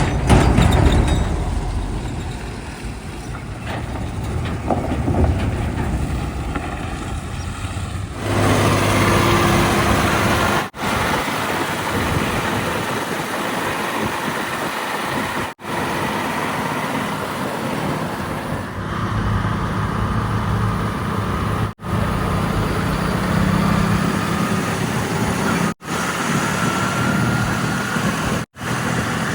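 Heavy diesel engines of earth-moving machinery and trucks running steadily. The sound changes abruptly at several short breaks, about six times.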